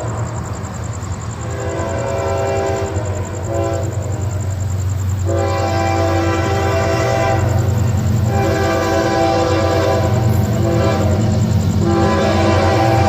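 Florida East Coast Railway freight locomotive's Nathan K5HL five-chime air horn sounding a series of long blasts with short gaps, over a diesel locomotive rumble that grows louder as the train approaches. The horn is fouled, with not all of its chimes sounding cleanly.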